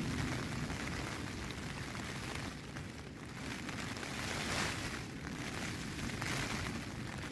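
Rain falling on a tent and wind gusting against it, a steady hiss of rain over a low rumble that swells and eases in waves.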